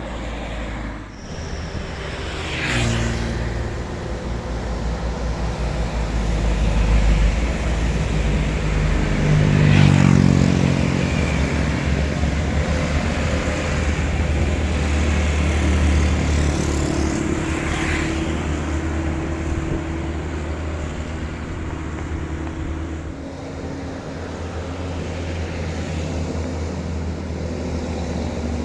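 Heavy diesel truck engine labouring up a hill, its revs rising and falling as it pulls, with three short hisses.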